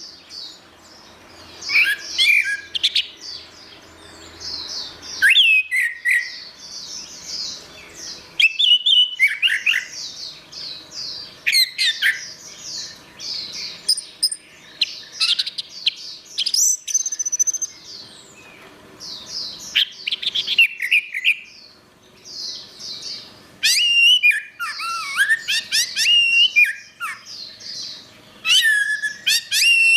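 Orange-headed thrush singing: a varied run of quick whistled phrases and trills, separated by short pauses, growing denser and more varied after about 23 s.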